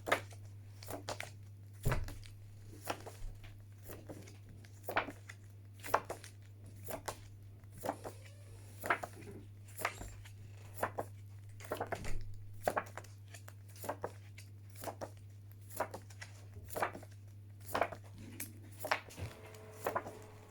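Phonics flashcards being flipped rapidly by hand: short paper-card rustles and flicks, about one to two a second, over a steady low electrical hum.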